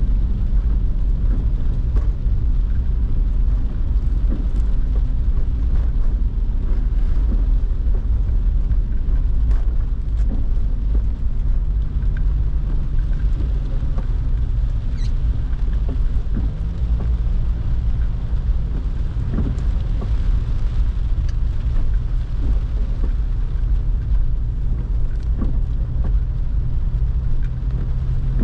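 Car driving in the rain: a loud, steady low rumble of road and engine, with the engine's hum shifting in pitch a few times, and scattered light ticks of rain.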